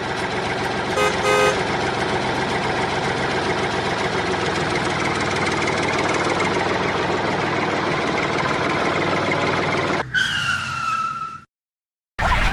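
Tractor engine running steadily, with a brief horn toot about a second in. Near the end the engine gives way to a short sound falling in pitch.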